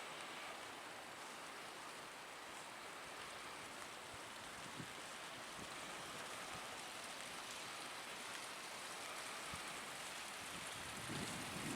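Steady rain falling, an even hiss with a few scattered drips. A low rumble starts building near the end.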